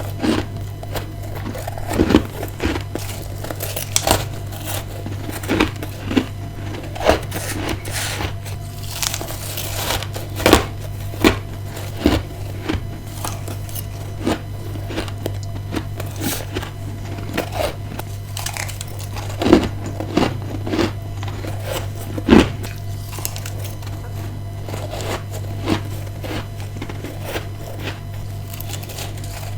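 Close-miked bites and chewing of freezer frost: irregular crisp crunches, one every second or two, with a couple of sharper bites in the second half, over a steady low hum.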